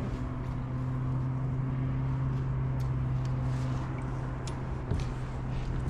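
A motor's steady low hum, easing off a little after about four seconds, with a few faint ticks.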